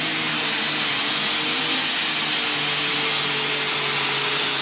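Alcohol-burning lightweight super stock pulling tractor's engine running flat out and steady during a pull down the track: a loud, even drone with a strong hiss over it.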